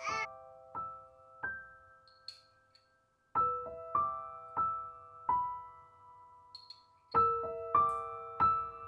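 Background piano music: slow single notes struck and left ringing, in short phrases of a few notes with pauses between them.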